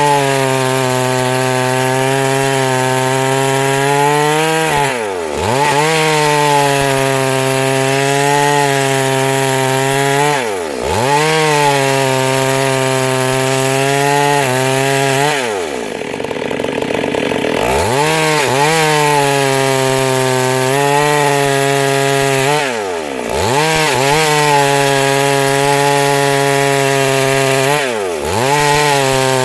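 Chainsaw running at high revs while cutting wood, its engine pitch dropping sharply and climbing back about every five seconds, with one longer dip about halfway through.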